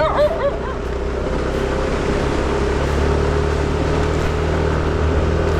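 Moped engine running steadily under way on an uphill ride, its drone getting a little louder about halfway through.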